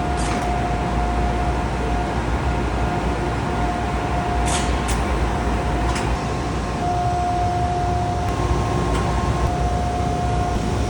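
CNC glass-cutting machine running: a steady low rumble under a high, even whine that drops out briefly twice, with a few sharp clicks.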